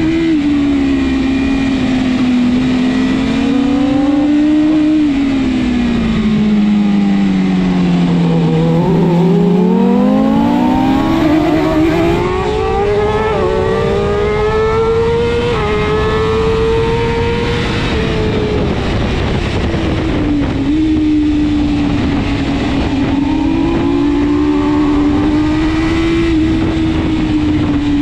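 BMW S1000RR superbike's inline-four engine running hard under racing load over a steady rush of wind noise. The engine note falls for several seconds as the bike slows, then climbs back up through the gears and holds at high revs near the end.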